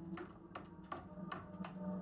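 Horror film soundtrack: a run of sharp clicks or taps, about three a second and not quite even, over a low steady hum.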